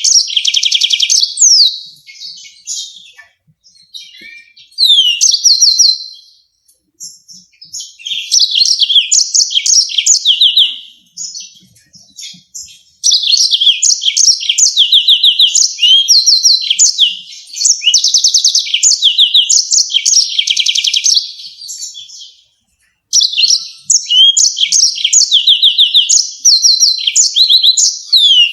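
Yellow-fronted canary singing in bursts of rapid, sharp chirps and quick sweeping notes, phrase after phrase with short pauses between.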